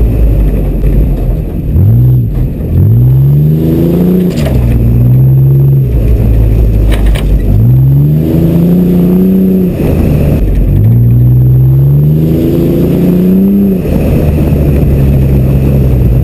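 Car engine revving up and dropping back again and again, over a steady low rumble from the drive. A few sharp knocks cut in along the way.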